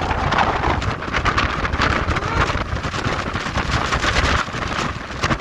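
Wind buffeting the microphone, a loud, gusty rumble and rushing that lets up slightly near the end.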